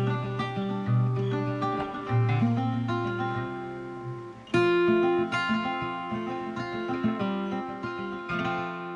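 Background music: acoustic guitar picking melodic notes and chords, a strong new chord struck about halfway through, ending on a ringing chord that fades.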